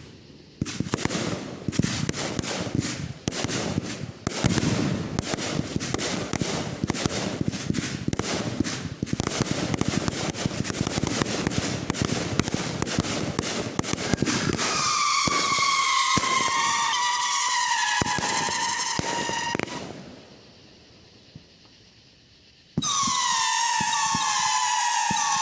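Consumer fireworks going off: for about fourteen seconds a dense, rapid crackling of many small cracks. Then comes a layer of overlapping high whistles that waver and fall in pitch, breaking off into a short lull before starting again abruptly near the end.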